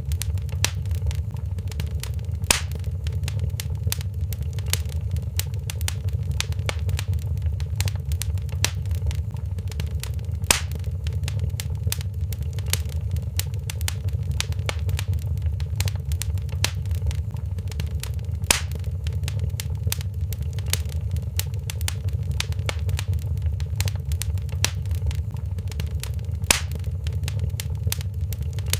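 Wood fire crackling in a fireplace: a steady low rumble under many small crackles, with a louder pop about every eight seconds.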